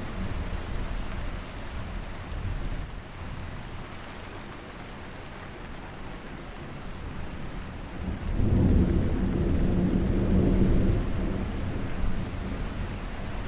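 Steady rain falling, with a low rumble of thunder swelling about eight seconds in and easing off about four seconds later.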